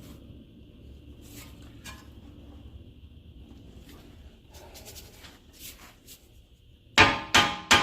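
Hammer blows on metal, sharp and ringing, about three a second, begin near the end: a new front strut being tapped up into its steering knuckle. Before them there is only a faint low hum with a few light clicks.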